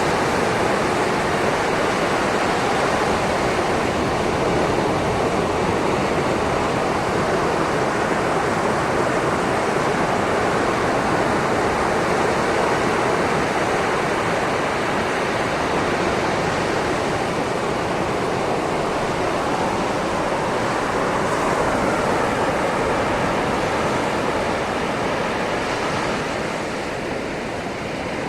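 Sea waves washing over a shoreline: a steady rush of surf that swells and eases slowly, fading slightly near the end.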